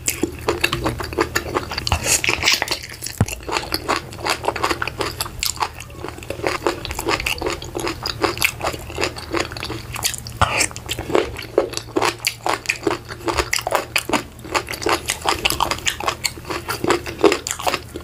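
Close-miked eating: biting and chewing food from a vegetable soup, a fast, continuous run of wet mouth clicks and small crunches.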